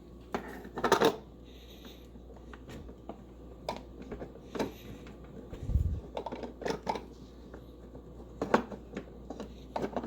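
Scattered clicks and knocks of an espresso machine's double-shot filter basket and portafilter being handled and fitted in place, with a low thump near the middle.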